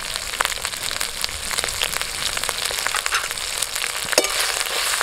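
Tomatoes and ginger–green chilli paste frying in hot mustard oil in an aluminium kadai: a steady sizzle with many small crackling pops, and one sharper click a little after four seconds in.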